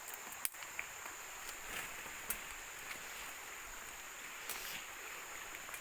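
Steady high-pitched insect chorus, with a few scattered sharp clicks.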